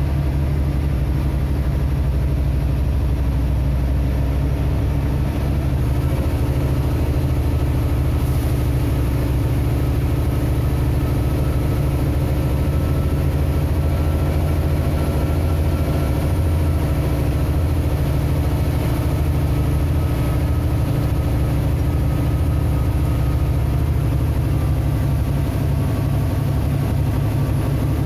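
Vehicle engine running steadily with a continuous low drone and road noise, with no sudden changes.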